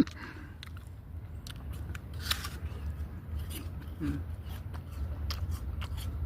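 A person chewing crunchy food close to the microphone, with irregular crisp crunches over a steady low rumble.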